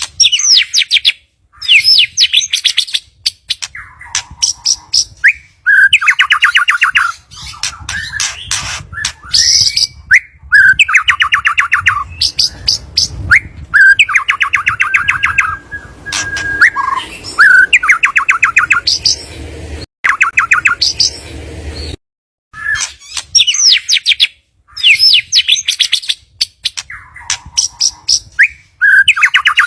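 White-rumped shama (murai batu) song: repeated fast, rattling chatter phrases about a second long, mixed with higher whistled sweeps and one held note. It breaks off abruptly into silence a few times.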